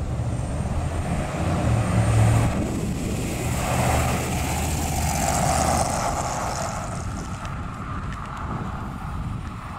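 1972 Chevrolet Corvette Stingray's 350 V8 running through dual exhaust as the car drives past, loudest as it goes by a few seconds in, then fading as it pulls away.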